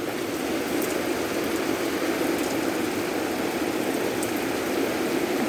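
Torrential rain pouring down steadily, a dense even rush of water with scattered drop ticks.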